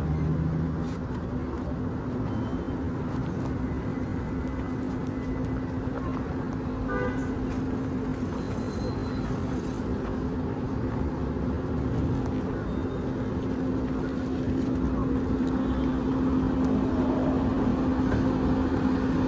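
Steady road traffic noise from slow, congested cars, with a constant engine hum that gets a little louder near the end.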